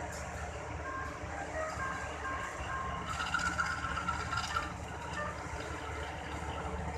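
Steady low engine rumble with a series of short, high electronic beeping tones over it; the beeping is loudest and pulses from about three to four and a half seconds in.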